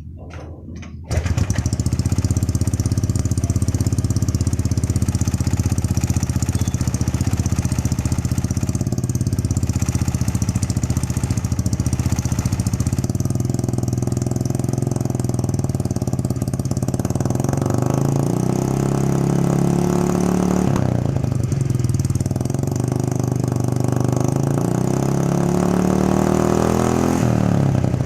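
Honda Vario 110 carburettor scooter's single-cylinder four-stroke engine, exhaust sound through an aftermarket round muffler. It starts about a second in and idles steadily, then is revved up and back down several times in the second half.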